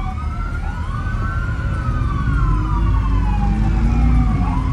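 Police sirens wailing, two or more at once, each rising and falling slowly and out of step with the others, over a low rumble of car engines.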